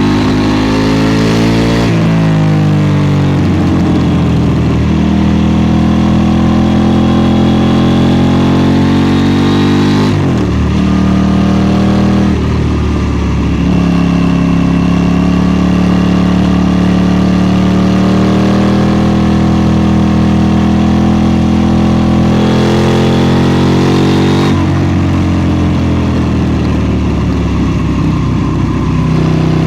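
KTM 790 Duke's parallel-twin engine under way, its note rising under throttle and dropping with gear changes and roll-offs, with a sharp drop in pitch about 24 seconds in.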